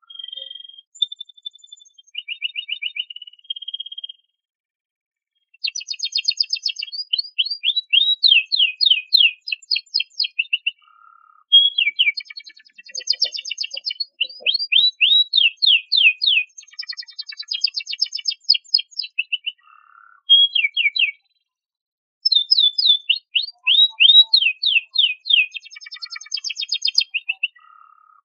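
Domestic canary singing: long phrases of rapid repeated notes and trills, each note a quick downward sweep, separated by short pauses, one near the start and one about two thirds of the way in.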